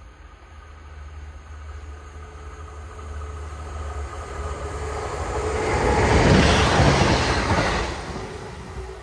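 Class 170 Turbostar diesel multiple unit approaching and passing at speed. The rumble of its engines and wheels on the rails grows steadily, peaks about six to seven seconds in as the train goes by, then fades.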